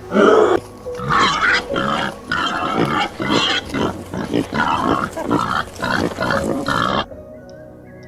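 An animal giving a rapid run of short, pitched, grunt-like calls, about three a second, over background music. The calls stop abruptly about a second before the end. A brief low call is heard at the very start.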